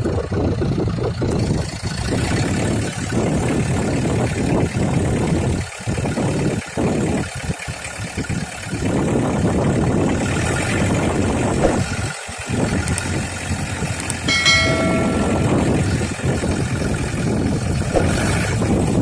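Heavy diesel engine running steadily, with a vehicle horn sounding once briefly about fourteen seconds in.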